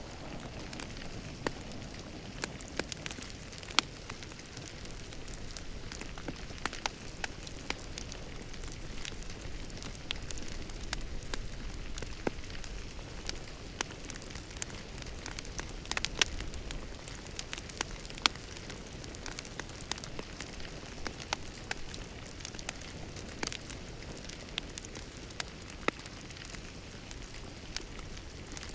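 Wood fire crackling in a fireplace: a steady low rustle of flames with irregular sharp pops and snaps, a few of them louder.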